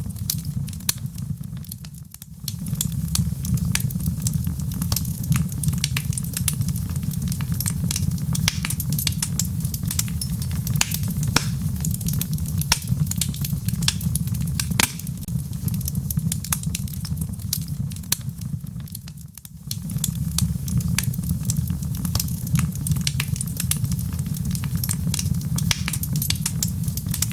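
Wood fire crackling, with many sharp pops and snaps over a steady low rumble and the soft hiss of rain. Twice the sound drops away for a moment before coming back.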